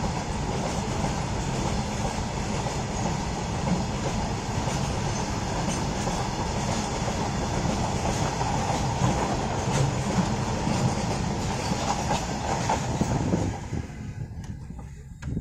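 Container freight train's flat wagons passing close by, a loud steady rumble and rattle with occasional clacks of wheels over the rail joints. The sound cuts off abruptly near the end.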